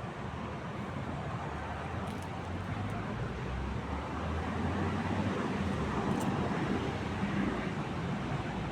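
Road traffic going by: steady car noise with a low rumble that swells about halfway through as a vehicle passes close, then eases slightly.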